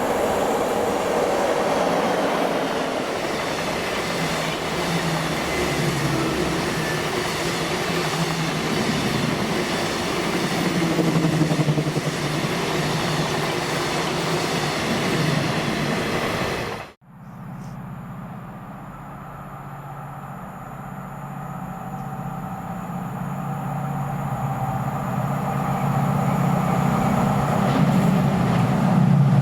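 A train running past loudly with steady rail noise. About two-thirds of the way in it cuts off abruptly, and a train's low engine drone begins quietly and grows steadily louder as it approaches.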